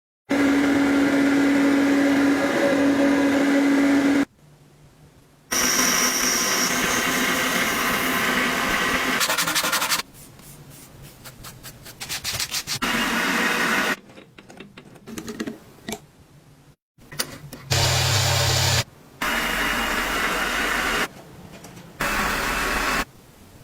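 Short clips joined by abrupt cuts: an electric power tool running with a steady whine and hiss in two long stretches, then quieter scraping, rubbing and clicking of handwork between shorter loud bursts.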